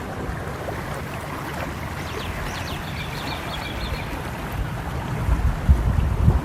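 Steady rushing of a flowing stream, with a low rumble that grows louder from about five seconds in. A small bird chirps a quick run of high notes about two and a half seconds in.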